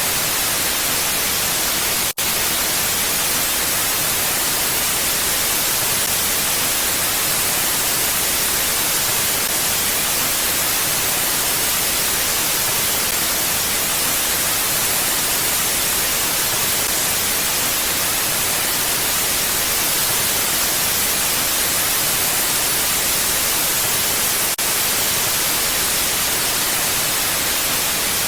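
Steady mountain wind, an even hiss with no gusts, broken by a momentary dropout about two seconds in.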